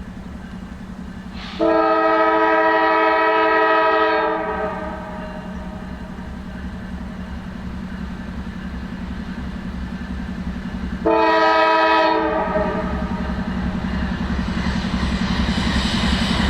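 Diesel locomotive horn sounding two blasts, a long one of about two and a half seconds starting near two seconds in and a shorter one about eleven seconds in, over a steady low engine rumble. A hiss of train noise builds toward the end.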